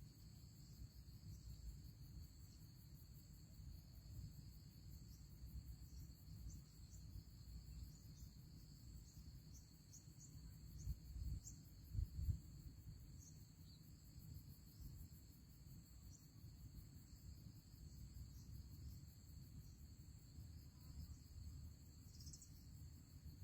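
Faint, steady high-pitched insect trilling, with a low rumble, a couple of soft thumps about halfway through, and a few short high chirps.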